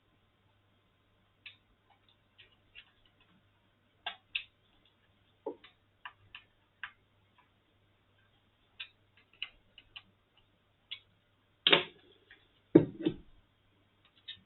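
Scattered light clicks and taps of small tools and plastic casing parts being handled during reassembly of a handheld sound level meter, irregularly spaced, with two louder knocks about twelve and thirteen seconds in.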